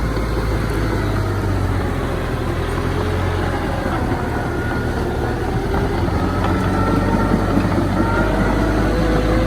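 Heavy diesel earthmoving machinery running steadily. Thin, wavering squeals ride over the engine hum from about a second in, louder toward the end.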